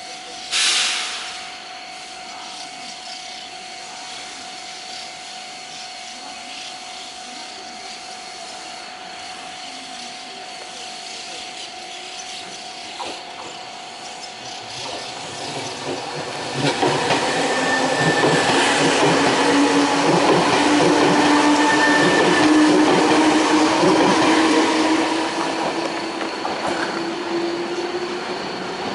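Train running close by: a brief loud rush of noise just after the start, then from about halfway the train's wheel noise builds up loud, with steady squealing tones over it, easing slightly near the end.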